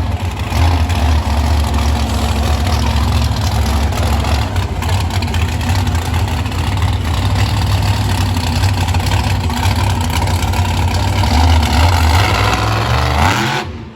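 Monster truck engine running loud, with a heavy, steady low rumble that cuts off just before the end.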